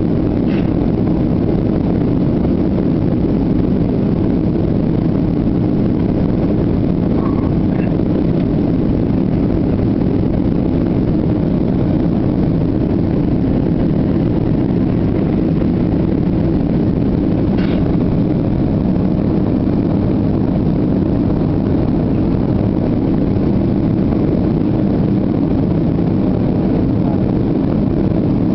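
Steady drone of an Airbus A320 in flight: even engine and airflow noise with no change in level.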